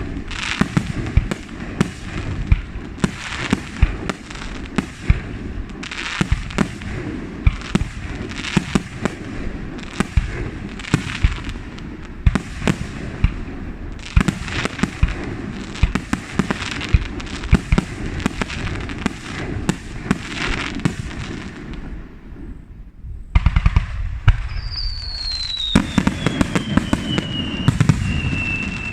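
Fireworks going off close at hand in rapid succession: many sharp bangs and crackles, several a second, with a brief lull about three quarters of the way through. Near the end a high whistle slides slowly down in pitch over the bangs.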